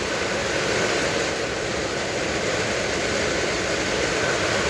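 Heavy rain and strong wind of a severe thunderstorm: a steady, unbroken rushing noise.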